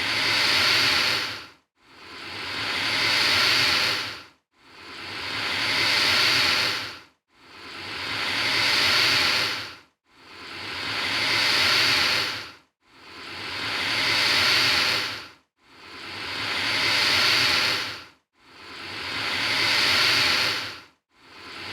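Alligator hissing: a breathy hiss that swells up and then dies away, repeated over and over about every three seconds with a short silence between hisses.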